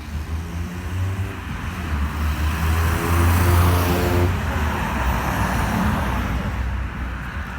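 A road vehicle passing close by, its engine and tyre noise growing to a peak about three and a half seconds in and then fading, over a steady low rumble.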